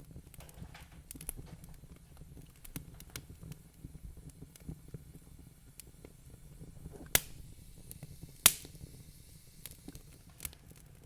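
Wood fire crackling in a fireplace: a low rumble under a steady scatter of small snaps, with two loud pops about seven and eight and a half seconds in.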